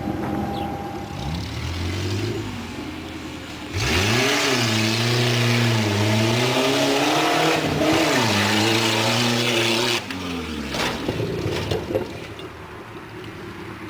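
A truck engine revving, its pitch rising and falling several times, much louder with a rush of noise for about six seconds in the middle, then dropping back to a quieter run.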